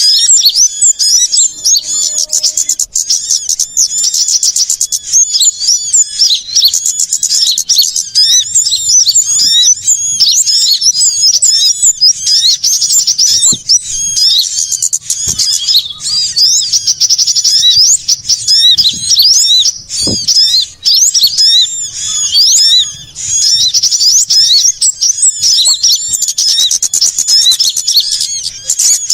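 Dense, loud chorus of many small songbirds chirping and trilling quickly and without a break: a bird-trapping lure recording of mixed small birds, sunbirds among them, played to call wild birds in.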